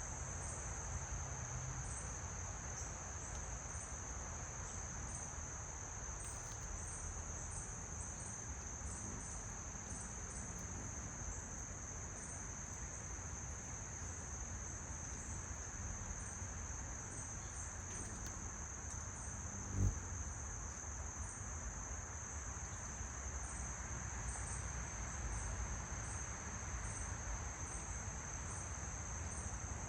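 Crickets trilling in a steady, high-pitched, unbroken chorus over a low background rumble, with a single dull thump about two-thirds of the way through.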